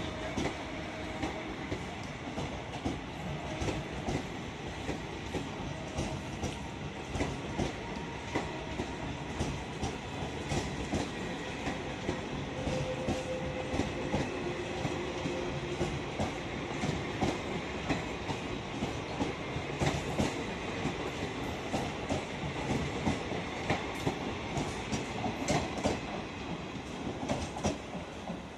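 Passenger coaches of a long express train running past, their wheels clattering over the rail joints in a steady, rapid clickety-clack over a rumble.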